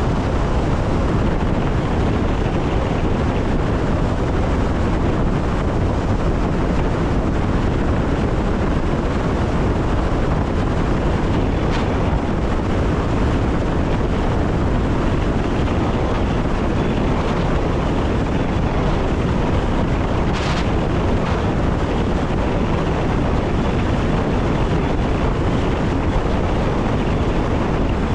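Electric passenger train running along the line, heard from the cab: a steady rumble of wheels on rail mixed with wind noise.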